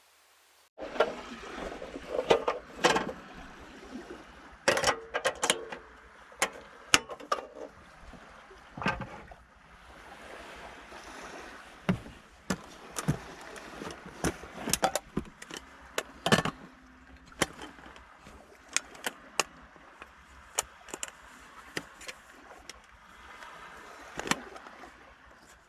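Rain falling, with irregular sharp taps of heavy drops striking close by.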